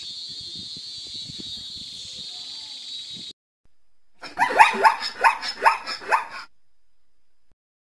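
An animal calling in a quick series of about seven short calls, each falling in pitch. Before the calls, a steady hiss-like noise cuts off abruptly.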